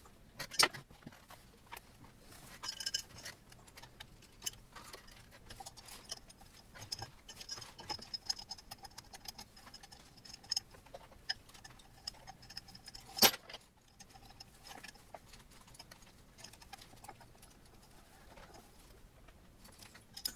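A small hex key turning screws while the power supply is fastened to an Ender 3 Pro's metal frame: scattered light metallic clicks and ticks, with a sharp knock about half a second in and a louder one about 13 seconds in.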